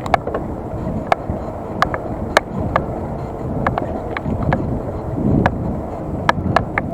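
Bicycle riding over pavement: a steady rumble of tyres and wind, with sharp irregular clicks and rattles, a dozen or more, as the bike and its mounted action camera jolt over bumps.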